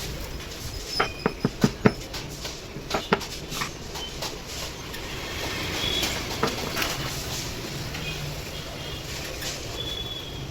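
A quick run of about five sharp metallic taps and clicks, then two more a second later and scattered lighter ticks, from tools and parts being handled while a petrol spray machine is repaired. A steady low hum underlies it.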